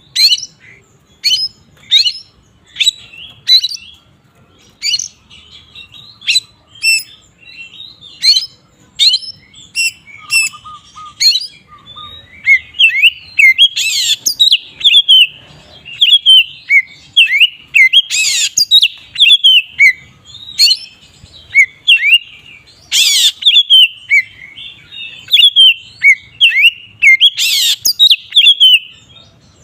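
Oriental magpie-robin (kacer) singing loudly in full, open song. It starts as a string of separate sharp, down-slurred whistles, about one every two-thirds of a second. About halfway through it becomes a continuous, varied warble, broken by a few piercing high notes.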